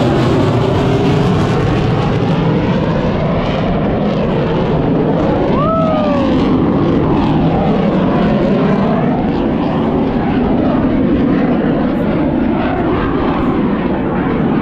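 An airshow aircraft's engine runs loud and steady as the plane flies past overhead. About six seconds in, a brief tone rises and then falls.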